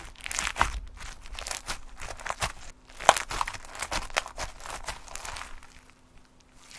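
Slime being squeezed and poked by hand, giving a quick, irregular run of sticky clicks and crackling pops that thins out and goes quieter near the end.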